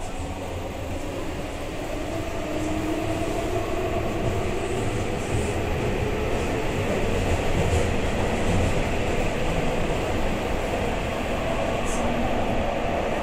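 Running noise inside a Keihan 9000 series electric train car picking up speed in a tunnel: a steady rumble of wheels on rail that grows louder, with a faint motor whine rising in pitch and a few small clicks.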